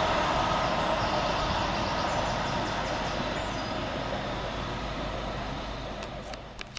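Two coupled Class 321 electric multiple units running through the station, the rumble of wheels on rail fading slowly as the train draws away.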